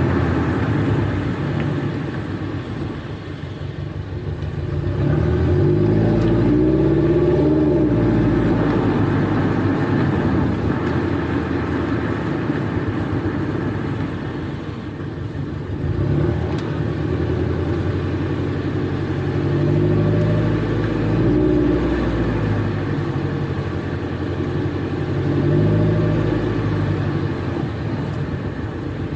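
Toyota GT86's flat-four boxer engine through a Blitz Nur Spec R aftermarket exhaust, running with the revs rising and falling several times.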